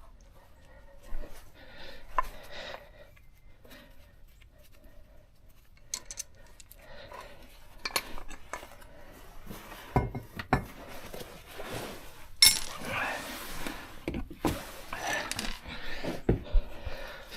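Metal tools and brake parts clinking and knocking in an irregular clatter during hands-on brake work, with a few sharper metallic knocks in the second half.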